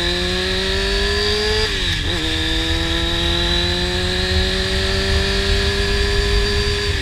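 Honda CBR600 inline-four sport bike with a slip-on exhaust accelerating. It shifts up about two seconds in, with a quick dip in revs, then pulls steadily again. Wind rumbles on the microphone throughout.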